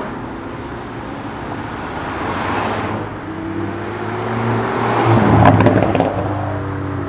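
Cars driving past on the road, engine notes rising and falling. One passes loudest about five and a half seconds in.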